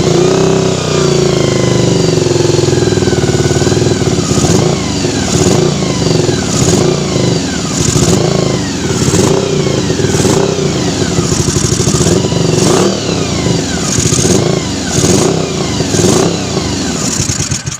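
Honda VFR400's 400 cc V4 engine running just after a start, its revs rising and falling about once a second under repeated throttle blips. It will not settle to an idle and cuts out suddenly at the end.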